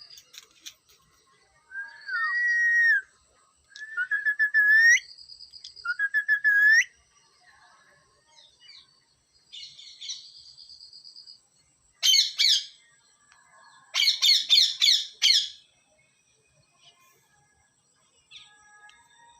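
A parrot whistling and calling: three short whistled phrases in the first seven seconds, each ending in an upward glide, then loud, rapid rattling bursts a little past the middle, with quiet gaps between calls.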